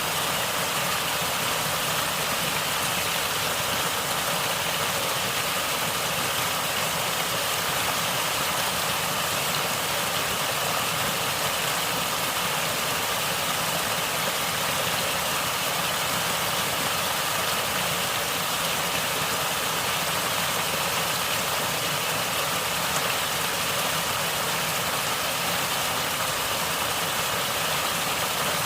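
Natural flowing water gurgling steadily, an even rushing hiss with no breaks.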